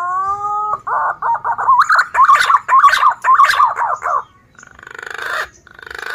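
Male punai daun green pigeon singing. A drawn-out, slightly rising whistle is followed by a run of warbling, wavering whistled notes, and two short harsh rasping notes come near the end.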